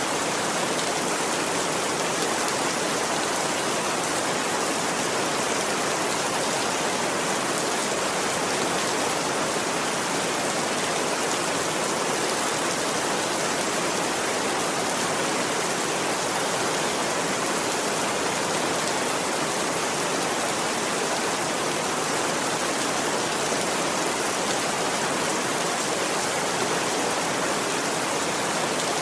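Steady rain, an even, unbroken hiss with no distinct drops or crackles standing out.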